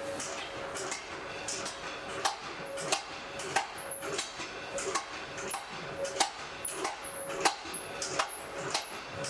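Blacksmith's hammer striking on an anvil in a steady rhythm, about one and a half blows a second.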